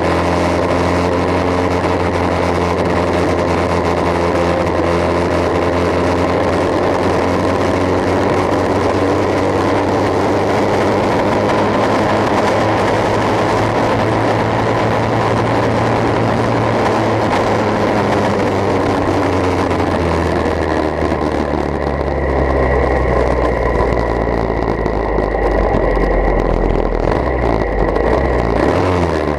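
Engine running steadily through a bamboo exhaust pipe. About two-thirds of the way through, its note drops lower and the deep drone grows stronger.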